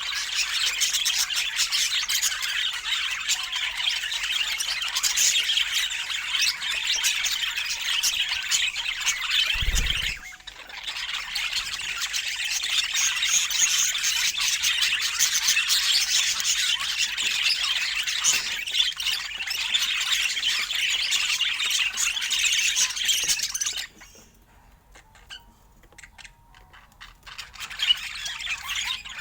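Budgerigars chattering and squawking in a dense, continuous stream. There is a brief dull thump and pause about ten seconds in, and the chatter drops away for a few seconds near the end before starting again.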